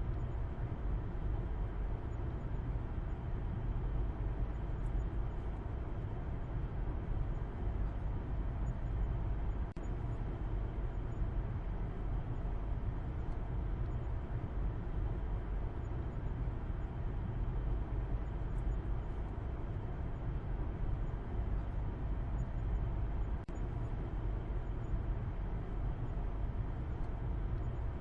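Car driving at a steady pace: an even, unchanging low rumble of engine and road noise.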